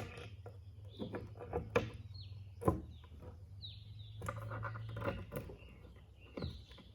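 Scattered clicks and knocks of screws and wooden pieces being handled, with a small bird giving three or four short falling chirps in the background and a low hum that stops about five seconds in.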